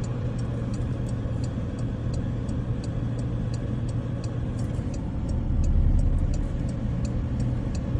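A vehicle's engine hums steadily under a regular ticking, about three ticks a second, with a low rumble swelling briefly about six seconds in.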